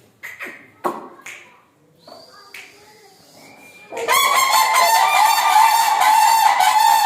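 Cranes calling: after a few short, quieter sounds, a loud, continuous chorus of rapid, honking trumpet calls begins suddenly about four seconds in.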